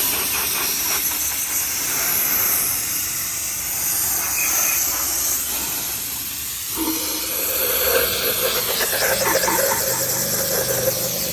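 Steady hiss of pressurized gas or air spraying out of a nozzle. About seven seconds in, a steady mechanical drone joins it.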